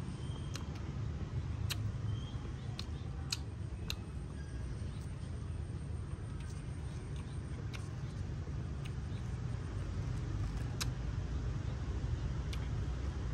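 Scattered sharp crackles and clicks of crispy fried tarantulas being broken apart and chewed, over a steady low background rumble.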